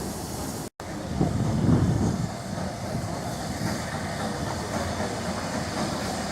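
Train running on the line, a steady rumble with rail clatter that swells about a second in. The sound cuts out completely for an instant just under a second in.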